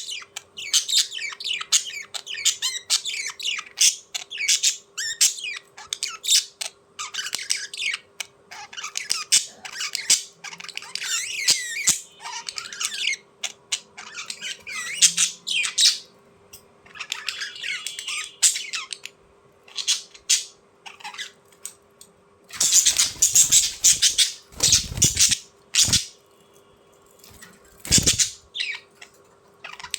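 Small birds chirping and squawking in quick, repeated calls. Near the end there are loud scuffling bursts, a few seconds long and again briefly.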